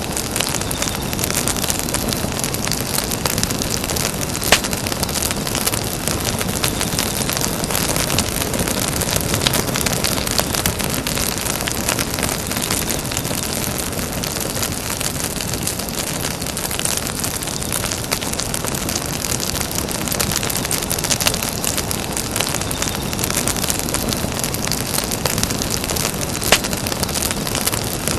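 Campfire burning: a steady rushing hiss of flames under constant small crackles, with a few sharper pops, one about four and a half seconds in and one near the end.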